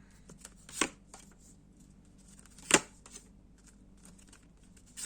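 Tarot cards being handled and laid down on a table: three sharp taps, the loudest midway, with faint rustles between.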